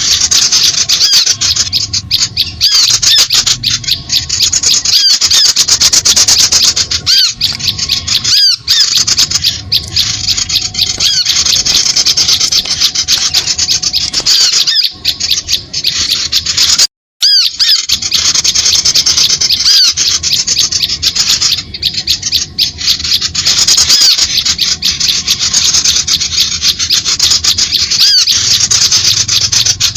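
Bird-lure call recording used to draw small birds onto birdlime: dense, loud, high-pitched chirping and squeaking that runs on without pause, cut off briefly about halfway through.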